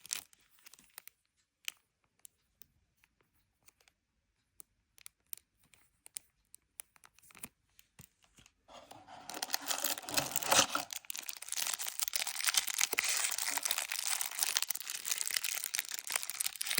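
Scattered light clicks and taps of handling, then a little over halfway through a continuous crinkling and tearing of the plastic packaging of a Pokémon Elite Trainer Box, with one louder tear shortly after.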